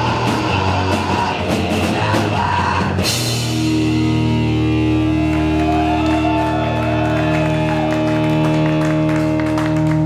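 Live rock band playing loudly, then a crash about three seconds in, after which a chord is held and rings on as a steady sustained sound.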